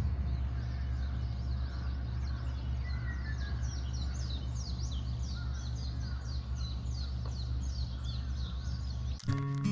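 Outdoor ambience of birds chirping rapidly in quick high notes over a steady low hum. Acoustic guitar music starts near the end.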